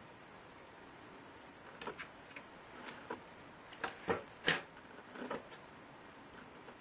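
Light clicks and taps of laptop parts and tools being handled during disassembly: about a dozen in a scattered run, the loudest two near the middle, over a faint steady hiss.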